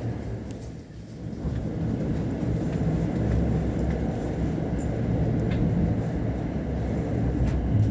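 Thunderbird limited express electric train running, heard inside the passenger car: a steady low rumble of wheels on rail, dipping briefly about a second in.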